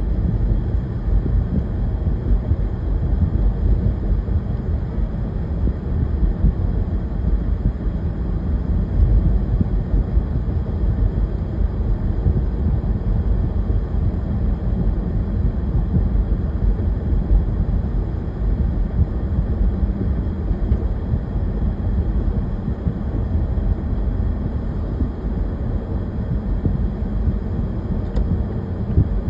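Steady low vehicle rumble, unchanging throughout.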